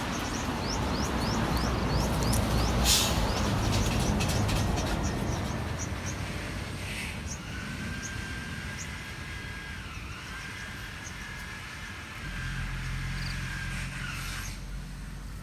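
A motor vehicle passing along a nearby road, its rumble swelling over the first few seconds and fading by about six seconds, with small birds chirping throughout. A steady high whine sounds for about seven seconds in the second half, and a low hum sets in near the end.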